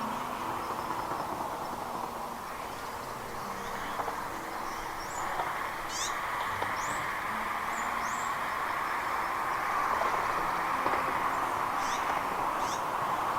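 Birds chirping: short, high, downward-sliding calls scattered here and there, several in the second half, over a steady background hiss.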